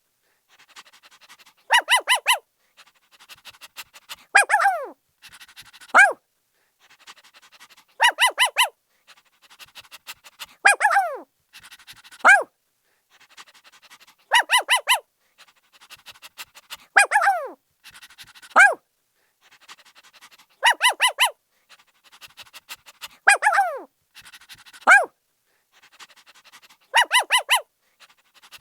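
A puppy barking in high, sharp yaps. Runs of about four quick barks alternate with single yelps that fall in pitch, with softer sounds between them. The same sequence comes round again about every six and a half seconds, like a loop.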